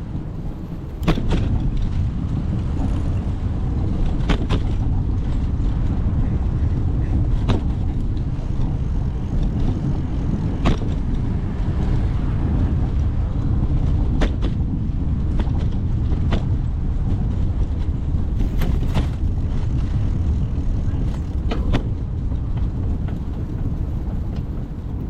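Steady low wind rumble on the microphone of a moving bicycle, with sharp knocks or clicks every two to three seconds.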